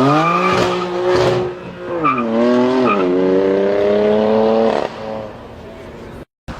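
Loud sports car engine revving. Its pitch climbs steeply and holds, dips and climbs again about two seconds in, then holds high before dropping away near five seconds.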